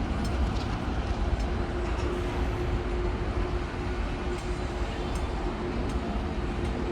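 Jet airliner engines rumbling steadily, with a steady hum coming in about a second in.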